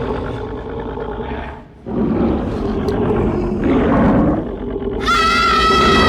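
Deep, loud growling and roaring of a giant three-headed dog (a film creature sound effect), swelling after a short lull about two seconds in. About five seconds in a high-pitched cry that holds its pitch joins it.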